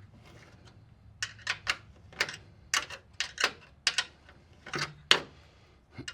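Hand tools and metal parts clicking and clinking as bolts are worked on a car chassis: a dozen or so sharp clicks at an uneven pace, about two a second, starting about a second in.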